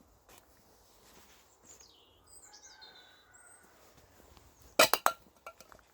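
A faint bird call of a few falling, whistled notes about two seconds in. Near the end come two loud, sharp knocks close together, then a few lighter clicks.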